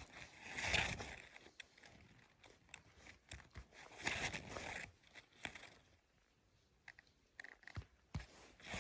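Crunching and rustling of forest-floor litter and twigs as someone moves through the undergrowth: two longer swells of crunching, about a second in and about four seconds in, with scattered snaps and clicks between.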